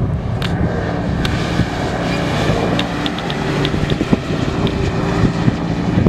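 Rally SUV's engine revving hard as it drives past on a sandy off-road track, its pitch shifting as it goes, over a rough rush of tyres and wind.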